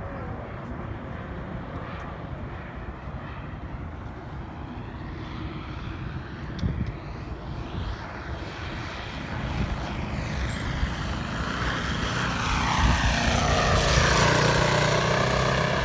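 DLE-55 single-cylinder two-stroke gasoline engine of an RC airplane in flight, its pitch sliding up and down as the plane passes. It grows much louder in the second half as the plane comes close.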